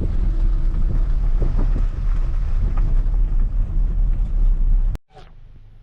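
Car driving, a loud steady low rumble of road and wind noise on the microphone, which cuts off abruptly about five seconds in to a quiet background.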